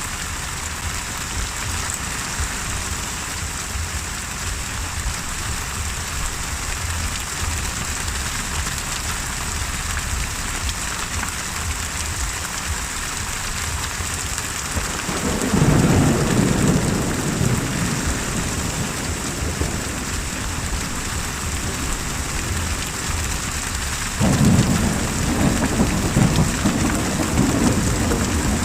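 Steady rain falling, with two rolls of thunder: one rumbling in about halfway through and a second breaking in suddenly near the end.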